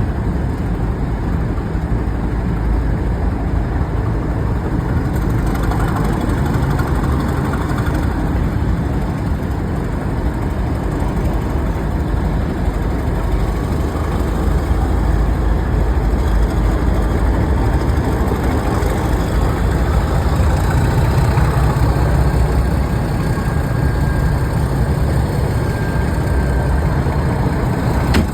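Train running at the station: a steady, loud low engine rumble that swells somewhat in the second half, with a faint rising whine near the end.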